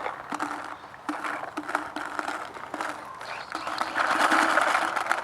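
Bob Long VIS paintball marker with a spool engine firing strings of shots at an uneven rate, stuttering rather than cycling evenly, and getting denser and louder from about four seconds in. The stutter comes from the loader not feeding paintballs consistently, which the shooter blames on his Spire loader's settings.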